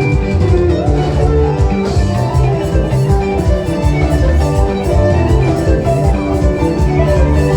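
Live band music with a steady drum beat, bass and keyboard or guitar melody lines.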